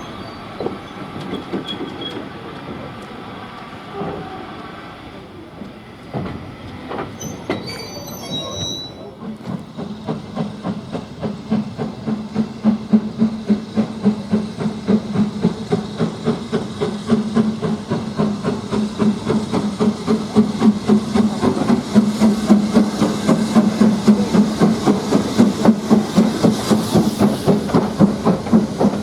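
A train running. About nine seconds in, a fast, regular beat of roughly two to three strokes a second sets in and grows louder.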